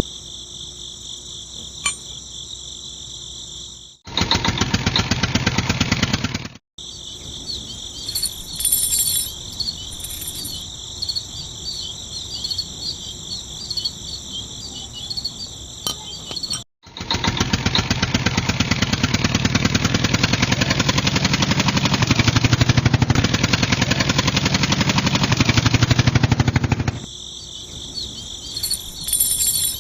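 Small motor-driven mechanism of a homemade miniature tractor chaff cutter, running twice as a fast rattling buzz: once briefly about four seconds in, then for about ten seconds from the middle on. A steady chorus of crickets sounds between and under the two runs.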